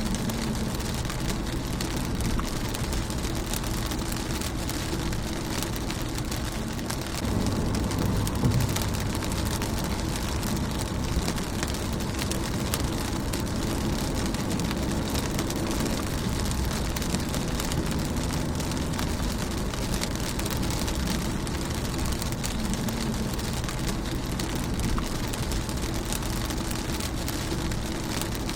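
Rain falling on a car's windshield, a steady dense patter of drops. A low rumble runs underneath and swells briefly about seven seconds in.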